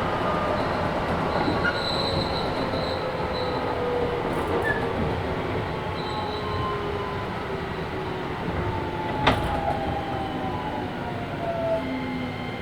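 Keisei 3000 series electric train heard from inside the car, slowing down. Several traction-motor and Toyo IGBT inverter tones fall steadily in pitch over wheel and rail rumble, with brief high wheel squeals and one sharp click about nine seconds in.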